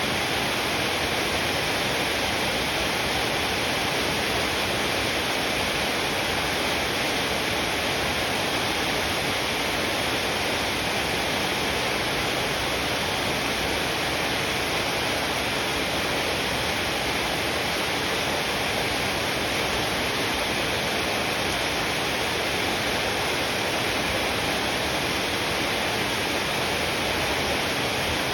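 Heavy rain falling, a steady, even hiss that doesn't change.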